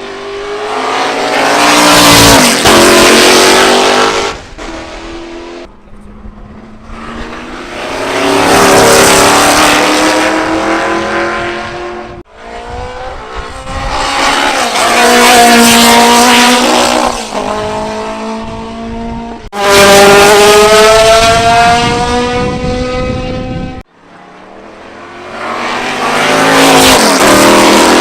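Racing cars passing at speed on a circuit, one after another. Each engine swells to a peak and fades as it goes by, with the pitch dropping. The sound cuts abruptly between about five separate passes.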